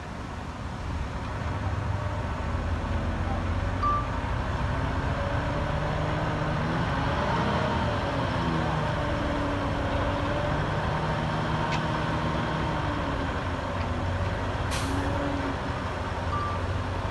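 Heavy diesel dump truck engine running and revving up and down, with a short air-brake hiss near the end.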